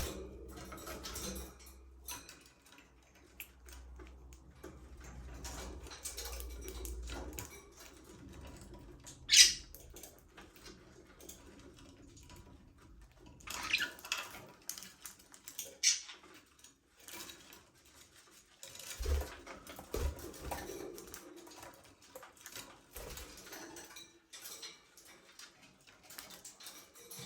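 Budgerigars in an aviary, sparse and fairly quiet: scattered short, sharp chirps and scratching sounds, with a couple of soft low thumps about two-thirds of the way through.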